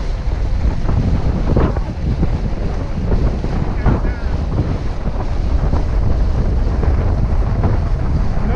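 Wind buffeting the microphone aboard a sailboat under way, a steady low rumble with water washing along the hull.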